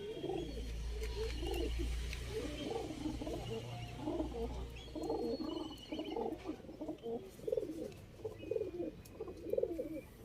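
Several domestic pigeons cooing, overlapping low burbling coos one after another, with a few faint higher chirps. A low rumble runs under the first half.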